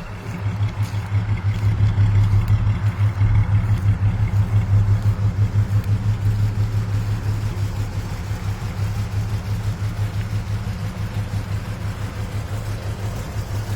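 A 1971 Ford Mustang's 302 V8 engine idling steadily, with an even, pulsing beat.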